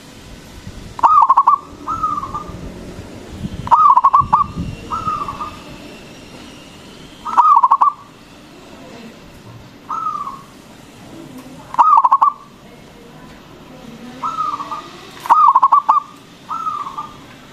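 Local zebra dove (perkutut) cooing: short rolling phrases repeated every one to two seconds, louder phrases alternating with softer ones.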